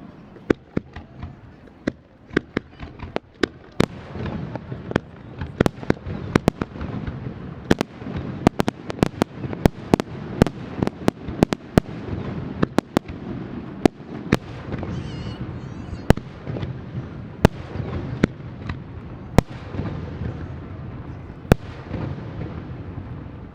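Aerial firework shells bursting in a rapid barrage: dozens of sharp bangs over a continuous low rumble. The bangs come thickest through the middle and thin to a few single reports near the end.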